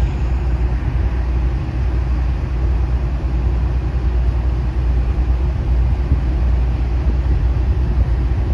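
Steady deep diesel rumble from a train: the Norfolk Southern locomotive hauling the FRA track-inspection cars, running at low speed or idling.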